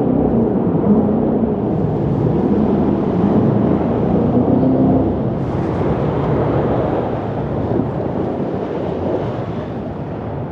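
Jet boat under way: the engine drone runs steadily under a loud rush of water and wind. The engine's pitch wavers a little, and the whole sound eases slightly near the end.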